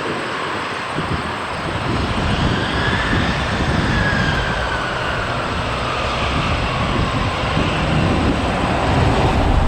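Jet airliner passing, a steady engine rush with a whine that falls in pitch as it goes by, and a low rumble building near the end.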